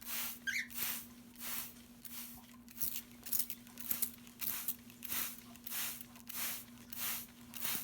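Hand-pump spray bottle misting water, its trigger squeezed over and over: about a dozen short hissing squirts, one or two a second. A cockatiel gives a brief chirp about half a second in.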